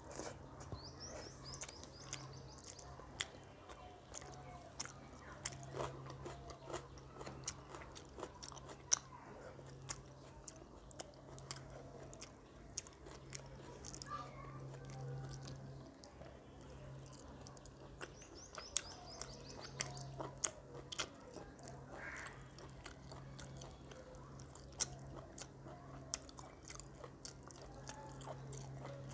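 Close-up chewing and mouth sounds of a person eating rice with chicken curry, with many quick wet clicks and smacks throughout.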